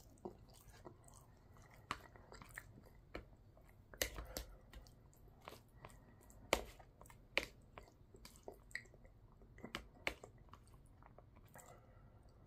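A person chewing and slurping a mouthful of spaghetti, with irregular wet mouth clicks and smacks.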